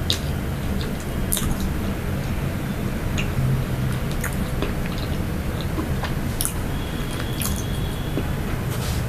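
Close-up chewing of soft pastry or snack cake, with scattered small wet mouth clicks, over a steady low hum.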